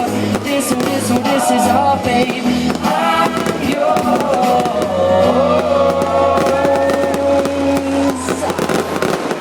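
Pop song with a male singer playing over fireworks bursting, with many sharp bangs and crackles through the music. The song's bass drops out near the end.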